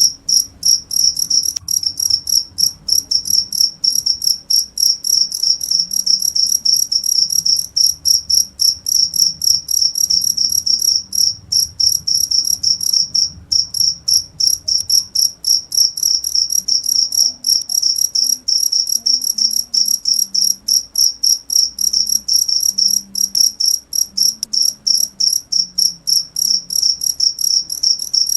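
A cricket chirping loudly and steadily: a high, pure, trilled note repeated in rapid, even chirps, about four to five a second.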